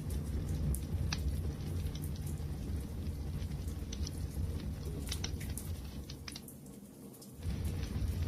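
Wood fire crackling, with scattered sharp pops over a steady low rumble of burning; the rumble dips briefly near the end and then comes back.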